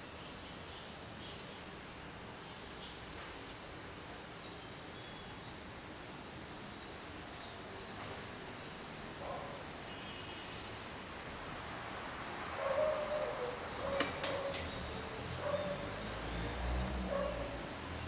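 A bird singing in the background: three short trills of quick falling high notes, each a couple of seconds long, about three, nine and fifteen seconds in. A sharp click comes just before the last trill.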